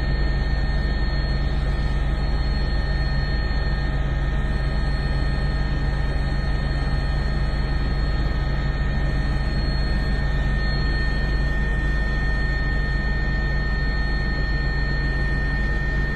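Steady engine and airflow drone heard from inside an aircraft cabin in flight, with a deep rumble and a few steady whining tones over it.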